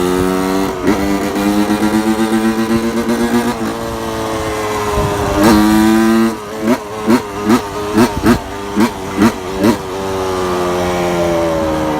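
2001 Suzuki RM80's single-cylinder two-stroke engine running and being revved. A steady note breaks into fast pulsing, then about nine quick throttle blips in a row around the middle, before settling back to a steady note that slowly drops in pitch.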